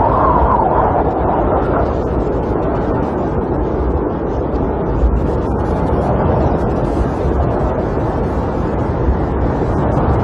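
Snowstorm wind rushing and gusting around a camper, a loud steady roar that swells and eases, with a stronger gust at the start. Faint scattered ticks of precipitation hit the camper's shell.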